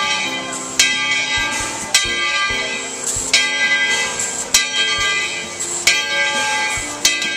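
Steam locomotive's bell ringing at a slow, steady pace, struck about once every second and a quarter, each strike ringing on.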